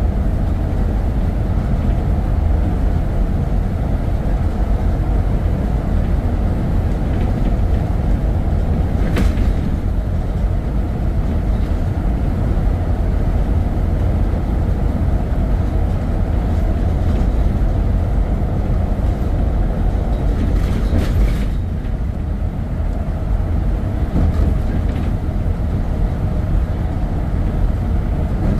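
Steady low rumble of a vehicle on the move, with a brief click about nine seconds in and a short burst of higher noise around twenty-one seconds.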